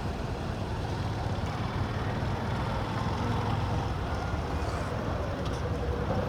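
Steady engine and road noise from a moving motorbike.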